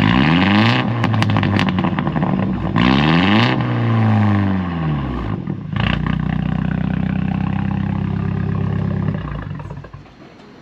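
Turbocharged BMW engine being revved twice, each rev climbing and falling back, with sharp pops and crackles from the exhaust. It is then held at a steady raised speed for a few seconds before dropping off near the end.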